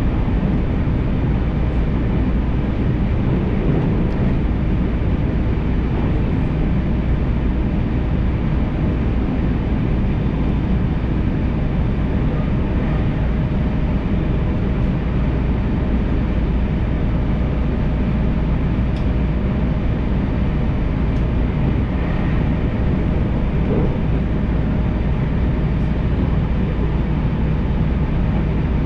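Steady running noise of a JR Tokaido Main Line electric train heard from on board: a constant low rumble of wheels on rail with a faint motor hum, at an even level throughout.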